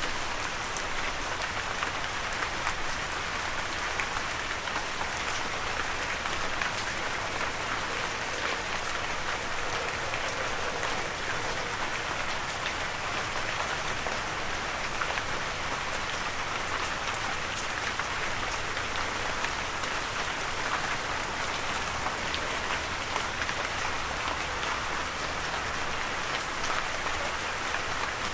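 Steady rain falling and pattering on a surface, an even hiss of many fine drop impacts without let-up.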